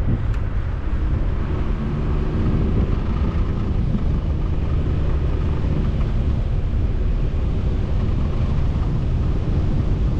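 Steady low rumble of road and engine noise from a vehicle being driven.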